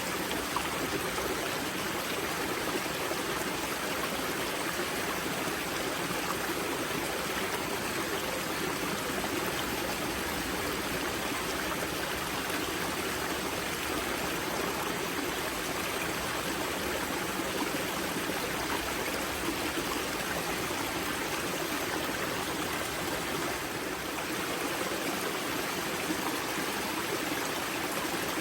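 Spring-fed mountain stream at its source, water rushing and splashing over rocks in a steady, even flow.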